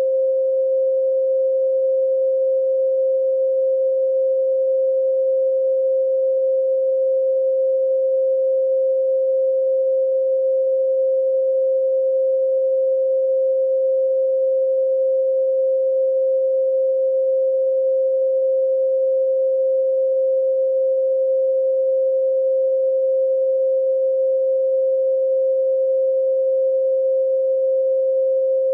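Continuous steady pure tone at 528 Hz, a 'solfeggio' healing frequency: one unchanging hum with no rhythm or variation.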